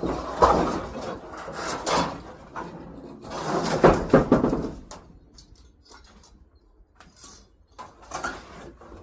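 Irregular scraping, rustling and clattering of objects being handled, loudest about four seconds in, then fainter scattered knocks.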